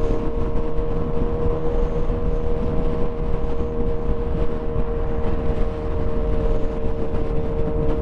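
Motorcycle running at a steady cruising speed, its engine holding one even note over wind and road rumble.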